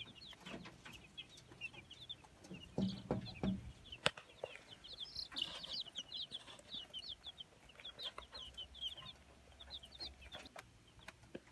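A brood of baby chicks peeping, many quick high chirps overlapping without a break. A few dull knocks come about three seconds in, and one sharp click just after.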